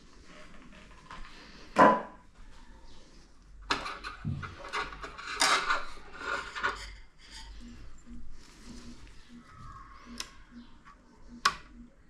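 Handling noises on a workbench: a sharp knock about two seconds in, a few seconds of rubbing and scraping, and another sharp knock near the end.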